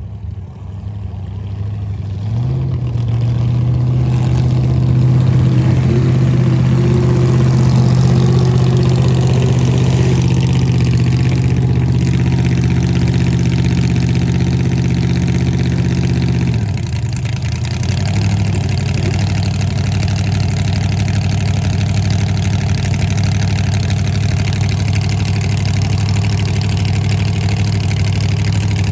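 Drag race car engine idling at raised revs, growing louder over the first few seconds, then dropping to a lower, steady idle about sixteen seconds in.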